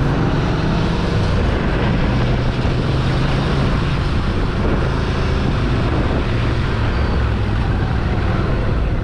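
Ducati Scrambler Sixty2's air-cooled 399 cc L-twin engine running at a steady cruise under way, with wind rushing over the microphone.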